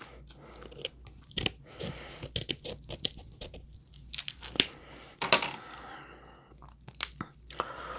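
A person eating crab legs: close, quiet chewing with a scattering of sharp crunches and clicks from the crab shell.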